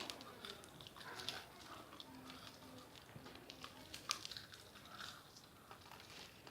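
Faint chewing and crunching of sour candies, with scattered short clicks and a wrapper crinkling now and then.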